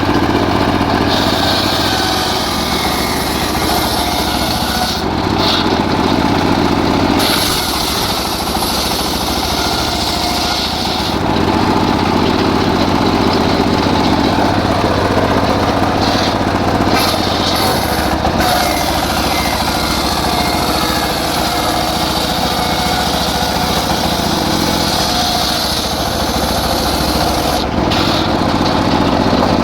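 Two-stroke chainsaw running continuously while sawing a teak log, the hiss of the cut rising and falling every few seconds over the steady engine note.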